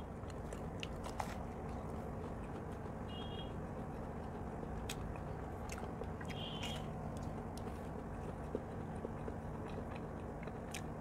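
Faint close-miked chewing and biting of a Bengali vegetable chop, a crumb-coated fried potato-and-beet croquette, with scattered small mouth clicks.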